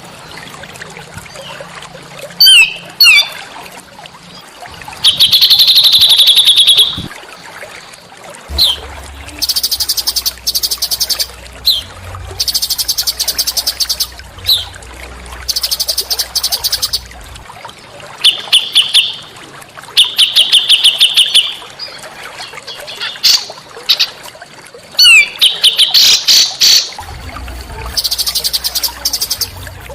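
Small songbirds singing: rapid high trills and buzzy phrases of a second or two, repeated many times, broken by quick sharp downward chirps. A faint low hum runs underneath at times.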